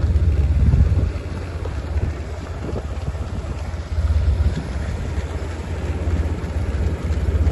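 Wind buffeting the microphone: a heavy low rumble that swells and eases in gusts, strongest in the first second, again from about four seconds in, and near the end.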